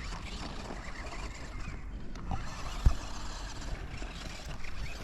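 Small electric motor of a remote-control toy monster truck whirring as it drives, with a single sharp knock just before three seconds in.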